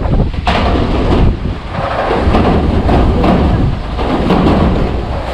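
Strong typhoon wind gusting, buffeting the microphone with a heavy low rumble that rises and falls.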